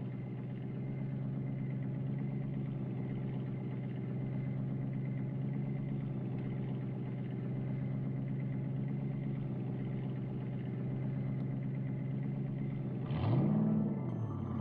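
V8 engine of a white 1970 Dodge Challenger idling steadily, with one short rev that rises and falls back about 13 seconds in.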